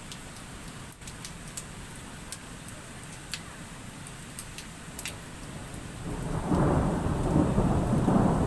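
Steady rain falling, with scattered sharp ticks of drops striking nearby, then about six seconds in a loud low rumble of thunder.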